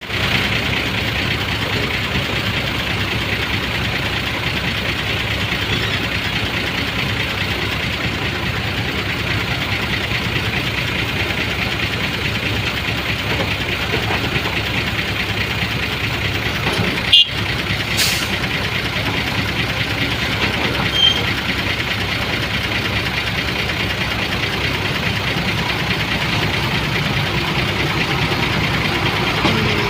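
Vehicle engine running steadily with road or traffic noise, broken by a sharp click about 17 seconds in.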